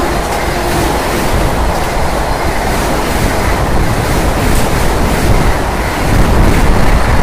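Vande Bharat Express electric train's coaches passing close at speed: a loud, steady rush of air and wheels running on the rails.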